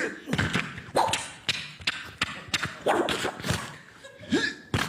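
A man making sound effects with his mouth: a quick string of sharp clicks and pops, some with short swooping squeaks, about two or three a second.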